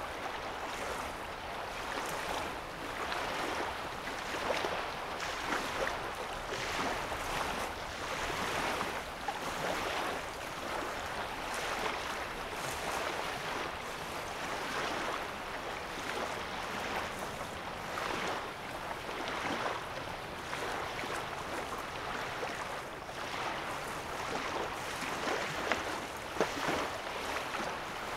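Small waves lapping on a sandy lake shore, a steady wash broken by frequent small, irregular splashes.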